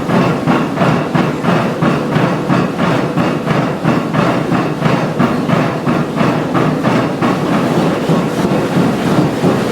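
Old gold-ore stamper battery running: heavy stamps pounding in a loud, fast, steady clatter of several blows a second, loud enough to need earmuffs. It starts suddenly at the very beginning.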